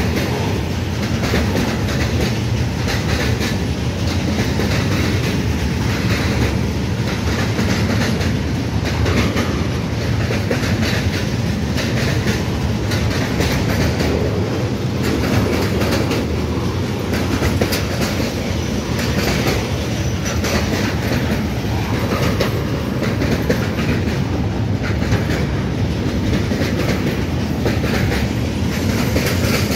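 Intermodal container freight train rolling past at close range: a steady rumble of wagon wheels on the rails with a regular clickety-clack as the wheelsets pass.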